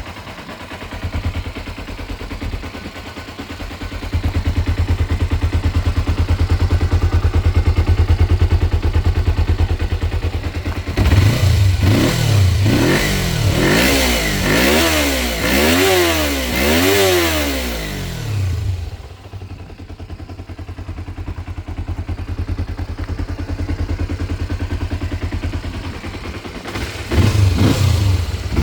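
A stock 1990 Kawasaki ZZ-R250's parallel-twin engine idles steadily through its standard exhaust. It is then revved in several quick blips in a row, each rising and falling in pitch, and settles back to idle. It is revved again near the end.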